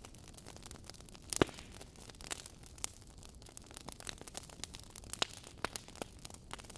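Wood fire in a fireplace crackling: burning logs give irregular sharp pops and snaps over a low steady hiss, the loudest pop about a second and a half in.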